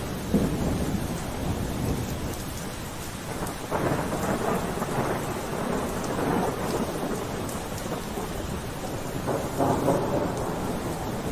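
Steady rainfall with rumbles of thunder, swelling about four seconds in and again near the end.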